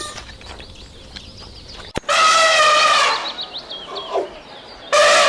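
Faint birds chirping, then, after a sudden click, a farm animal gives a loud call lasting about a second. A second call starts near the end.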